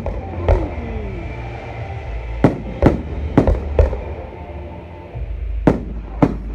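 Fireworks display: aerial shells bursting with sharp bangs, seven in all. There is one early on, then a quick run of four about two and a half to four seconds in, and two more near the end, over a steady low rumble.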